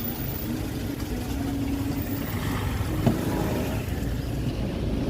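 Steady low rumble of vehicle engines, with a faint hum of tones above it and a small knock about three seconds in.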